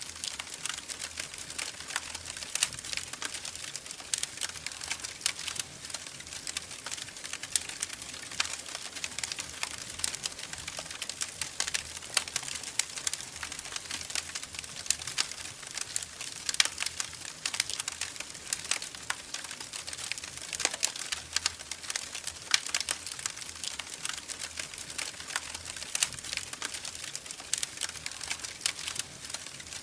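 Wood fire crackling steadily, with dense irregular pops and snaps over a soft hiss.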